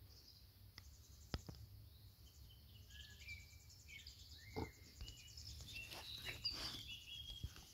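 Faint chirping of small birds, several short calls from about three seconds in, over a quiet outdoor background, with a sharp click a little over a second in.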